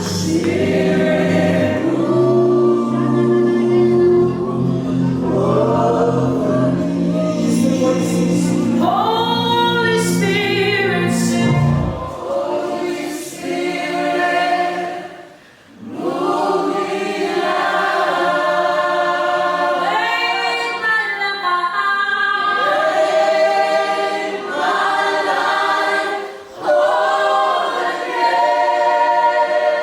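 Worship choir singing a gospel song, with low sustained instrumental accompaniment that cuts off about twelve seconds in, leaving the voices almost unaccompanied. There is a brief near-pause a few seconds later before the singing comes back in full.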